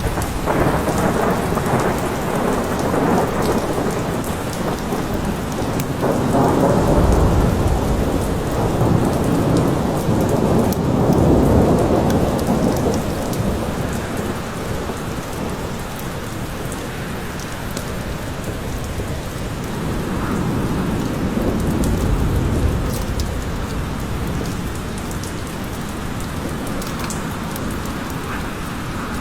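Steady rain falling, with low rolling thunder that swells and fades several times, strongest in the first half.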